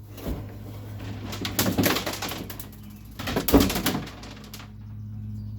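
A loose object sliding and knocking inside the hollow plastic hull of a Sun Dolphin kayak as the kayak is tipped, in two scraping rushes with a knock just before them. The owner guesses it is a loose seat support.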